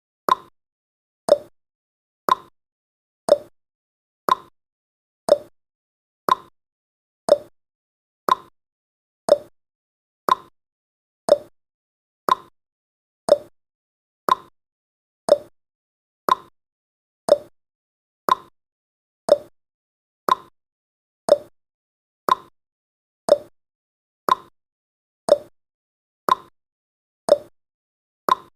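Countdown timer's ticking sound effect: one short, sharp tick every second, each dying away quickly.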